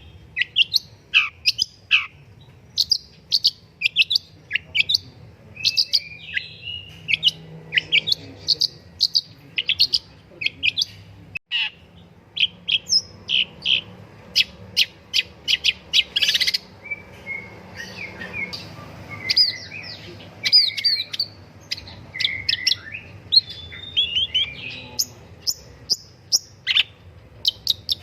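Long-tailed shrike singing a fast, varied song of sharp chirps, quick downward slurs and short buzzy notes, with hardly a pause.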